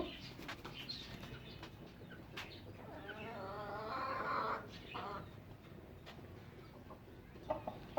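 Domestic chickens clucking, with one longer wavering call about three seconds in, among faint scattered clicks and knocks.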